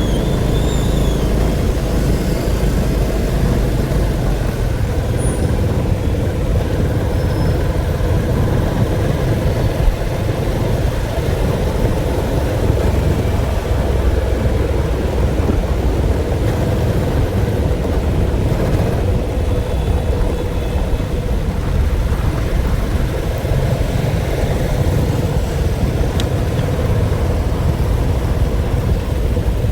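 Steady low rumble of a moving vehicle, with a faint even hum running through it.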